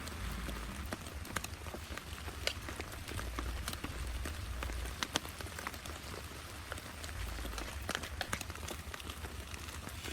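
Heavy rain falling, with many separate drops striking sharply close to the microphone. A low rumble comes and goes underneath.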